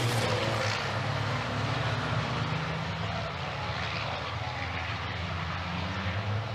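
Steady engine drone with a low hum and a haze of noise, holding even with no passing peak, typical of racing truck engines heard at a distance on a circuit.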